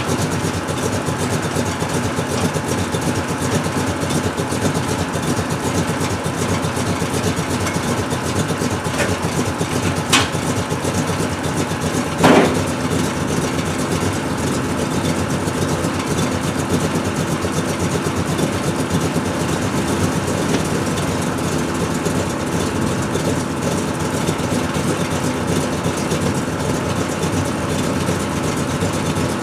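A vehicle engine running steadily, with a sharp click about ten seconds in and a short knock a couple of seconds later.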